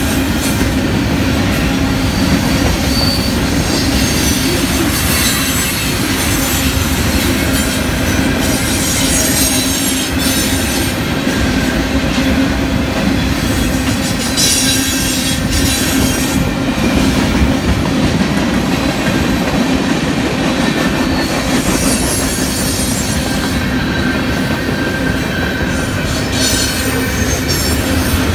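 Train passing close by, its wheels running steadily over the rails with a low hum underneath. Patches of high wheel squeal come and go every few seconds.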